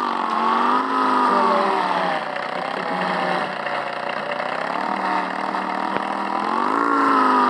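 Small motorcycle engine running as it is ridden, its pitch rising and falling smoothly as the revs go up and down.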